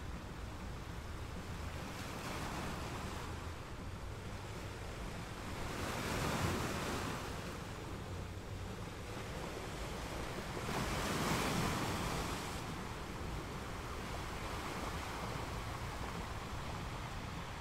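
Gentle ocean waves washing in: a steady hiss of surf that swells louder twice, about six and eleven seconds in, as waves break.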